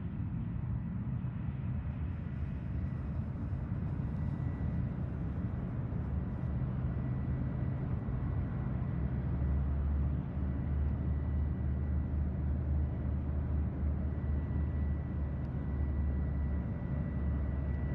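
Cessna Citation X's turbofan engines heard as a steady low jet rumble with a faint thin whine above it during its takeoff and climb-out. The rumble grows heavier about halfway through.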